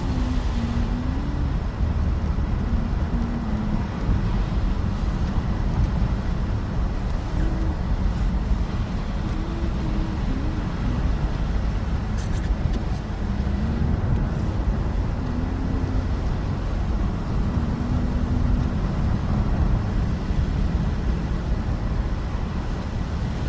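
Car driving on a snow-covered road, heard from inside the cabin: a steady low rumble of engine and tyres, its pitch drifting a little as the speed changes.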